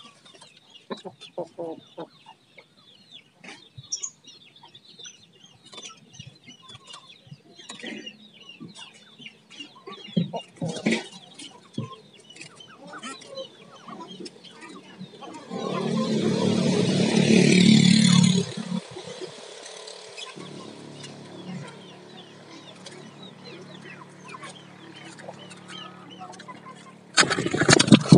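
Birds calling in short, scattered chirps and squawks. About halfway through, a louder, noisy sound of a few seconds rises over them, then gives way to a steady low hum.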